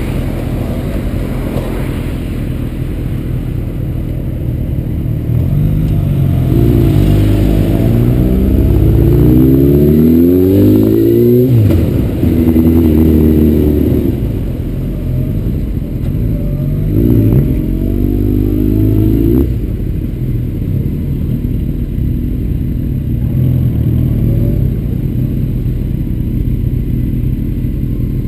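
Honda CBR900RR Fireblade's inline-four engine, heard from a helmet camera over a steady rush of wind. About a third of the way in it revs up in several rising sweeps, then drops off sharply, and it runs at low speed for the rest.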